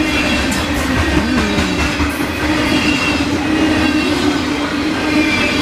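Grain hopper cars of a Norfolk Southern freight train rolling past: a steady rumble and clatter of steel wheels on the rails, with faint high wheel squeals and a steady hum.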